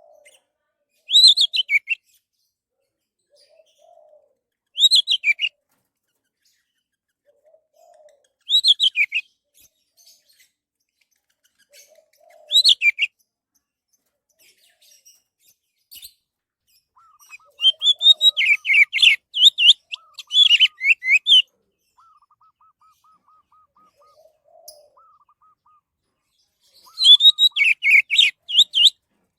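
Orange-headed thrush singing: short phrases of quick, falling whistled notes repeated every three to four seconds, then longer, fuller bursts of song in the second half. A faint low note comes just before each phrase, and a faint rapid trill sounds in the later part.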